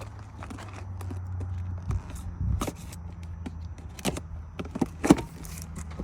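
Scattered clicks and knocks of car parts and tools being handled over a steady low hum; the sharpest knock comes about five seconds in.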